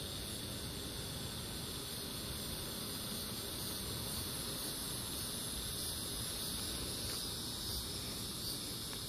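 Steady, high-pitched chorus of insects, crickets or similar, droning without a break.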